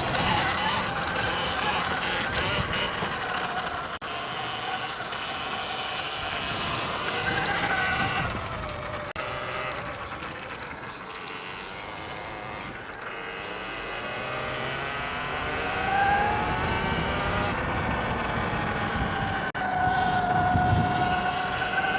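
Electric dirt bike motors whining, the pitch rising and falling as the bikes speed up and slow down, with a clear climb in pitch past the middle and a steady high whine near the end. A rushing noise runs underneath.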